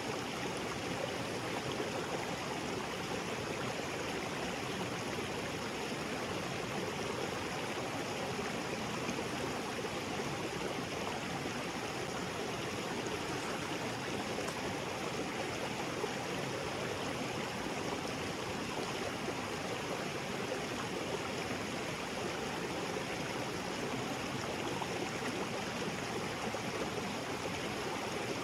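Small waterfall pouring into a rocky jungle creek: a steady, even rush of falling and flowing water.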